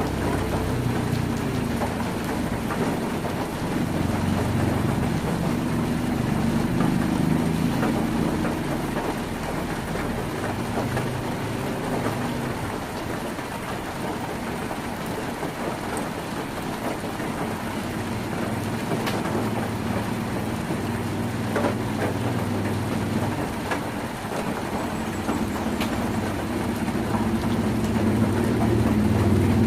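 Heavy rain drumming steadily on a tin roof, with a few sharper drop ticks. A low rumble runs underneath, easing off in the middle and growing again near the end.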